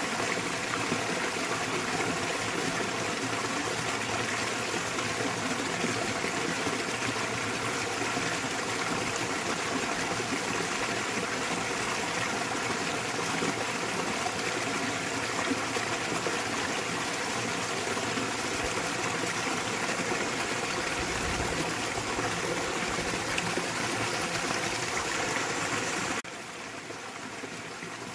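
Small waterfall splashing into a mountain stream, a steady rushing of water. About 26 s in it abruptly turns quieter and duller for the last two seconds.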